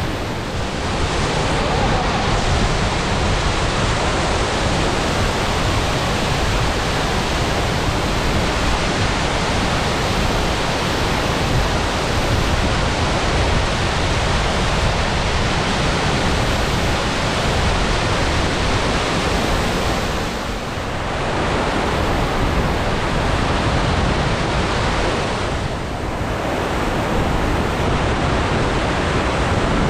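Waterfall in spate heard from close by: a loud, steady rush of falling water that dips briefly twice, about two-thirds of the way through and again near the end.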